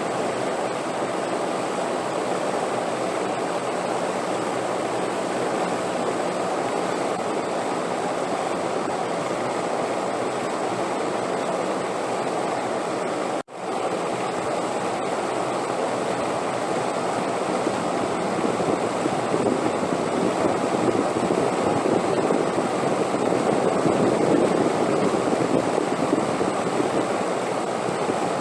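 Steady wind, an even rushing noise that cuts out for a split second about halfway through and grows a little louder in the last third.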